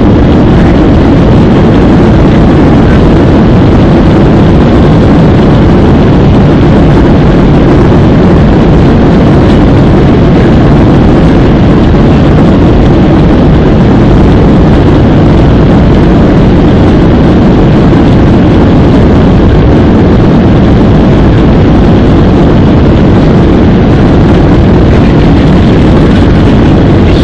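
Boeing 737-800's CFM56 turbofan engines at takeoff thrust during the takeoff roll, heard from inside the cabin as a very loud, steady, deep roar.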